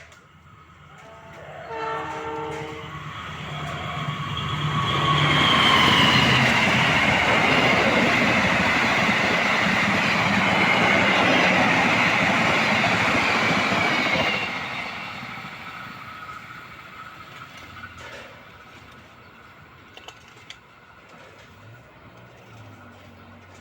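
Argo Semeru express passenger train passing at speed. The locomotive sounds its horn once, about two seconds in and for about a second. The train then goes by loudly for about ten seconds, with a high ringing tone that falls slightly in pitch, before fading away.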